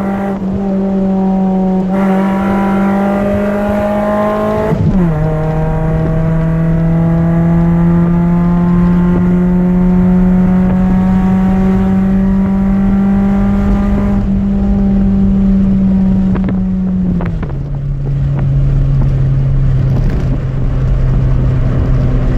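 Chevrolet Celta 1.0 four-cylinder engine with a 4x1 header and a two-inch exhaust with no mufflers, running on ethanol and accelerating through the gears. The exhaust note climbs slowly, drops sharply at a gear change about five seconds in, climbs slowly again, and falls to a lower steady note about seventeen seconds in.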